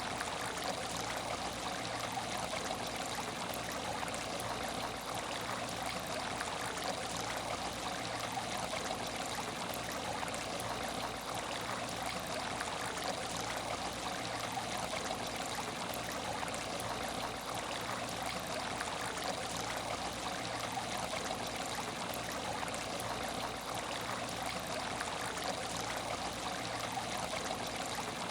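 Aquarium tank water running and trickling steadily, with no change through the stretch.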